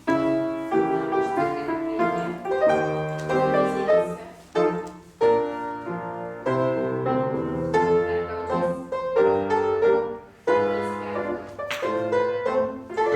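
Piano playing a classical-style melody over chords, with notes struck one after another in a steady dance rhythm, as accompaniment for ballet class exercises.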